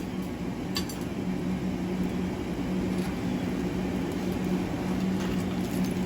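Blacksmith's forge running steadily with a low, even hum, as steel heats in the fire; a light metallic clink about a second in.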